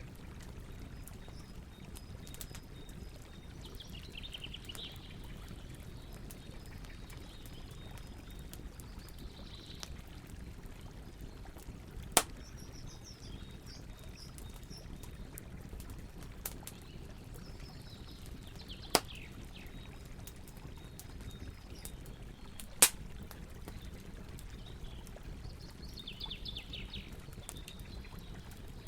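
Campfire burning with steady crackling and three sharp, loud pops spaced several seconds apart. Birds chirp intermittently behind it.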